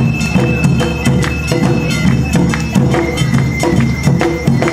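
Awa odori narimono music: a shinobue bamboo flute holding high notes over a steady, driving beat of shime-daiko and o-daiko drums and a clanging kane hand gong.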